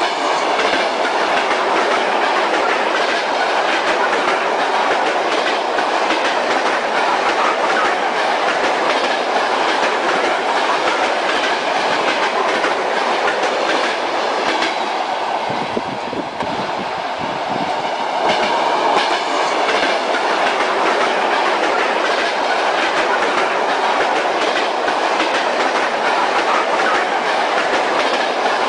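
Train wheels knocking over rail joints in a steady clickety-clack rumble, heard from a moving railway carriage. About halfway through the sound turns deeper for a couple of seconds before returning to the usual clatter.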